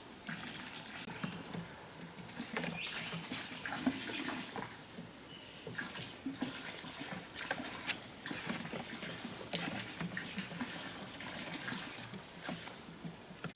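Water splashing and trickling in irregular bursts, with scattered small clicks.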